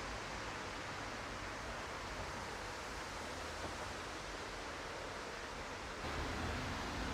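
Steady rushing noise, even and without any tone or rhythm, with a low rumble joining it about six seconds in.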